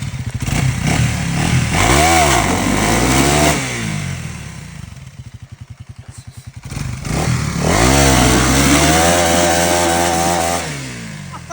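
Gas dirt bike engine revved hard in two long bursts, rising and falling in pitch, dropping to a pulsing idle in between. The bike is bogged in deep mud and the revs are an effort to work it free.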